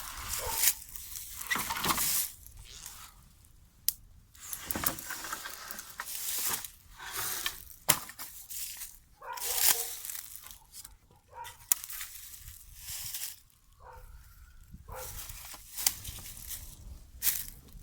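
Irregular crunching, tearing and rustling with sharp snaps, as dry material such as cardboard and brush is handled or trodden on.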